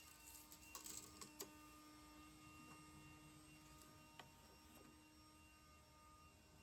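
Near silence: a faint steady hum, with a few light clicks about a second in and once more about four seconds in.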